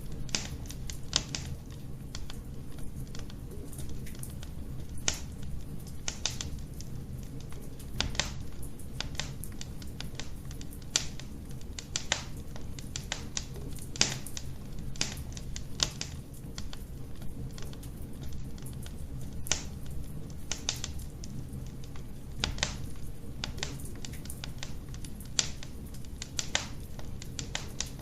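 Fireplace fire crackling: irregular sharp pops and snaps, a few a second, over a steady low rumble of the flames.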